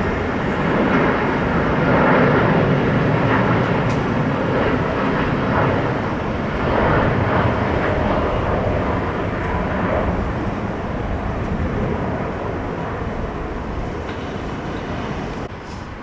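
Jet airliner engine noise passing close by: loud at first, then slowly fading away, with a sudden drop just before the end.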